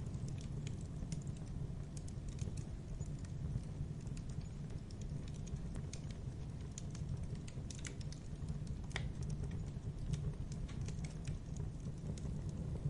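Wood fire burning in a fireplace, with a steady low rumble and frequent small irregular crackles and pops.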